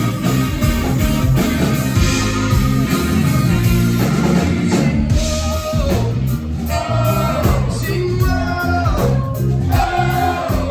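Live rock band playing a song: electric guitar, bass and drum kit, with a voice singing in the second half.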